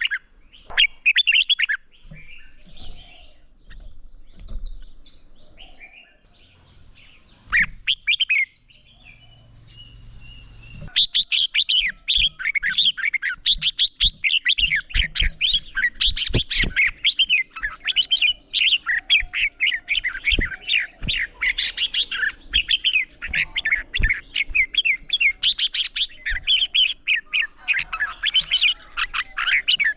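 Red-whiskered bulbul song: quick, chattering phrases. Bursts come in the first few seconds, then a brief lull, then from about eleven seconds on the birds sing in fast, dense, almost unbroken runs, the loud competitive singing kept birds are trained on.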